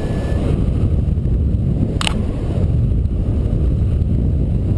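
Wind rushing over the microphone of a paraglider in flight, a loud steady low rumble. A single sharp click sounds about two seconds in.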